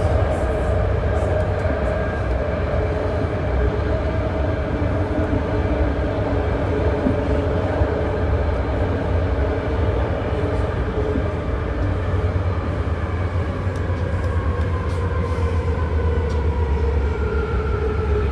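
BART train running between stations, heard from inside the car: a steady low rumble with motor whine tones over it, which shift in pitch near the end, and light rattles.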